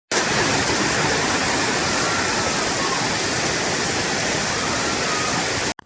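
Waterfall running: a steady, even rush of falling water that cuts off suddenly just before the end.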